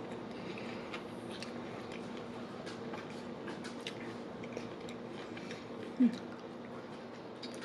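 Close-miked chewing and small mouth clicks of a person eating a sandwich, over a steady low hum. A short low vocal sound comes about six seconds in.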